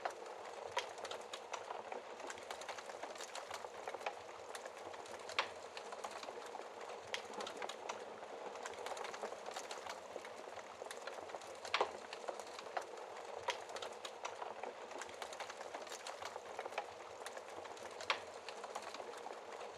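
Wood fire burning in a fireplace: a steady soft rush of flames under constant small crackles and snaps from the burning logs, with three louder pops spread through the stretch.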